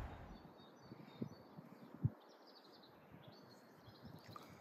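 Songbirds chirping faintly from trees beside the railway line, with two low thumps about one and two seconds in.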